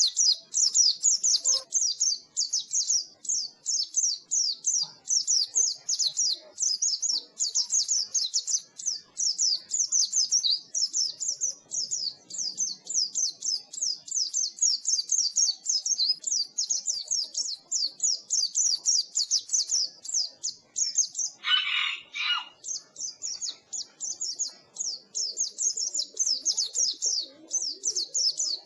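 White-eye (pleci) twittering without pause in rapid high chirps, several a second: the continuous ngeriwik chatter used to train caged white-eyes to sing. About three quarters of the way through, a brief lower-pitched call cuts in.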